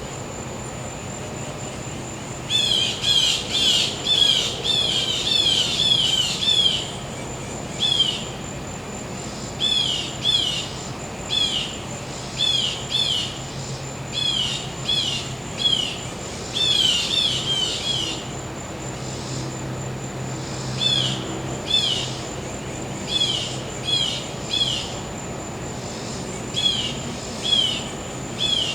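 A bird calling in quick series of short, sharp chirps, in bouts with short pauses, starting a couple of seconds in. Under it run a steady high insect trill and the low hum of a gas-powered generator.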